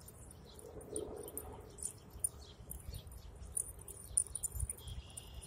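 Small birds chirping faintly, many short high chirps scattered irregularly.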